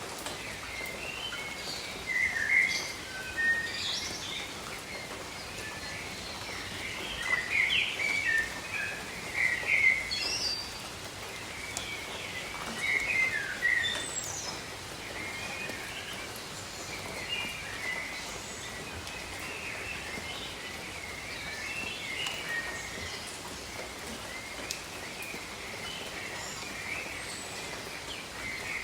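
Steady rain hiss over a rainforest, with many birds chirping and calling throughout, busiest in the first half.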